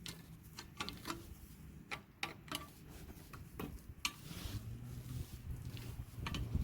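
Scattered light clicks and taps of hand tools working an old, brittle leaf spring bushing out of its eye, irregular and spaced about half a second to a second apart. A faint low hum comes in about two-thirds of the way through.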